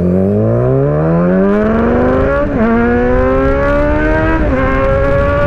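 Kawasaki Z900's 948cc inline-four, through an aftermarket Austin Racing full-system exhaust, accelerating hard. The engine note climbs steeply, then dips at an upshift about two and a half seconds in and again about four and a half seconds in, climbing again after each shift.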